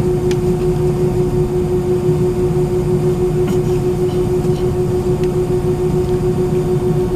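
Cabin noise inside an Airbus A319-131 on the ground before takeoff, with its IAE V2500 engines at idle: a steady drone with a constant mid-pitched tone over it and a few faint clicks.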